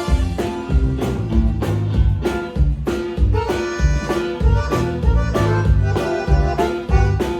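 Live band playing an instrumental passage with a steady beat: accordion lead over bass and drums, no singing.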